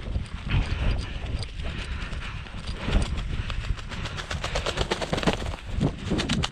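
Footsteps crunching and rustling through dry grass and brush, quick and uneven at first, then a fast, regular crunching from about the middle on.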